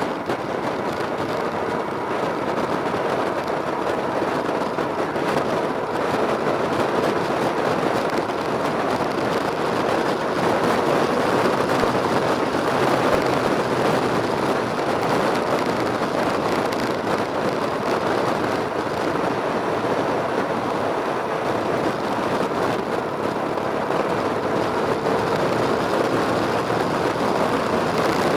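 Motorcycle engine running at a steady pace with continuous road and wind noise and a faint steady whine.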